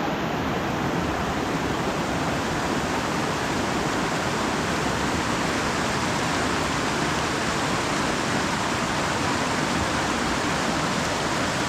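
Steady rushing water of a small woodland river, an even unbroken wash of noise.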